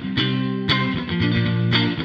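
Fender Player Series Stratocaster electric guitar played through an amp: chords strummed in a rhythmic pattern, each stroke ringing into the next.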